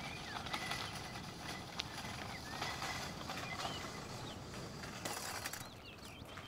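Small birds chirping in short, scattered calls over a steady outdoor hiss, with a few sharp clicks and rattles.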